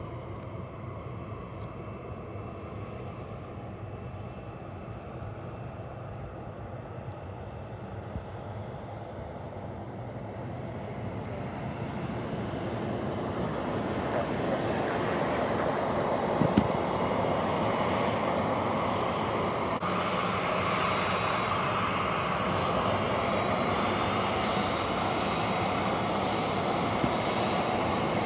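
Aircraft engine noise growing louder over a few seconds as a plane nears, then holding steady and loud, with a single sharp knock partway through.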